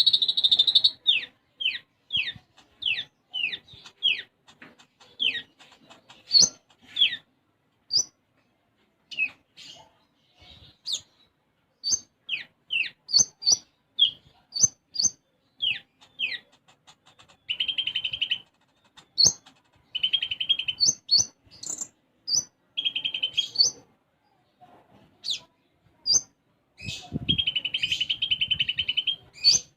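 A caged konin songbird singing nonstop: quick down-slurred whistled notes, high sharp chips and several longer buzzy trills, one of the longest near the end, with chirps mimicking a Eurasian tree sparrow worked into the song.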